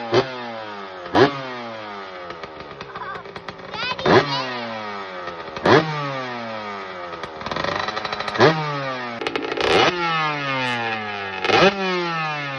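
2006 Husqvarna CR 125's single-cylinder two-stroke engine running and being blipped, revving up sharply about six times and falling back to a lower speed in between. It is the engine's first run after water has been drained from its crankcase and exhaust.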